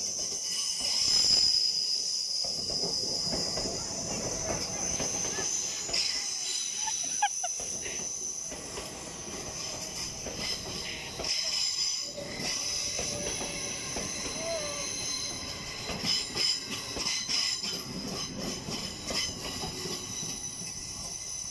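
LNER Class 801 Azuma electric train running slowly past along a curved platform, its wheels giving a steady high-pitched squeal over the rumble of the coaches. A few knocks come near the end.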